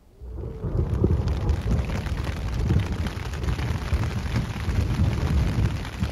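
Heavy rain falling, coming in suddenly just after the start as a dense, steady patter with a deep low drumming.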